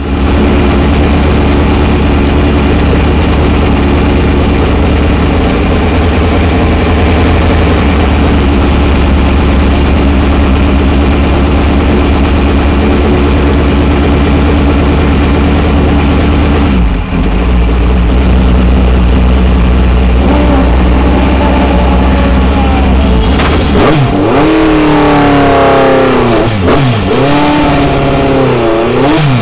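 Race car engine heard from the open cockpit, idling with a steady low rumble; from about twenty seconds in it is revved repeatedly, the pitch rising and falling in quick blips.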